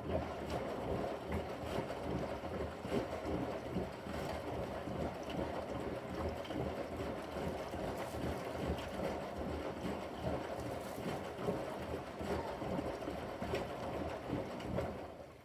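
Bosch front-loading washing machine's drum turning during a Quick 15 wash, the wet pillow and water sloshing and tumbling inside. The tumbling starts suddenly and stops suddenly after about fifteen seconds, as the drum pauses between turns.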